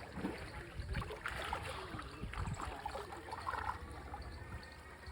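River water splashing and trickling in irregular bursts, as water is stirred or poured at the water's edge.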